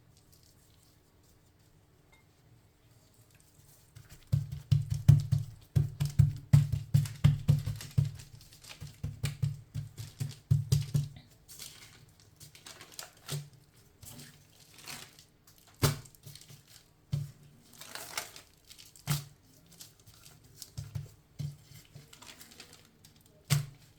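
Raw chicken breasts being turned over and handled on baking paper: irregular crinkling of the paper with soft taps and thumps, starting about four seconds in and busiest for the next several seconds, then sparser.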